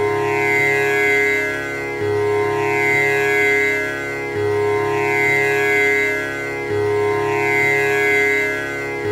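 Tanpura drone: its strings plucked one after another in a repeating cycle about every two and a half seconds, each pluck blooming into a buzzing, overtone-rich tone that rings into the next.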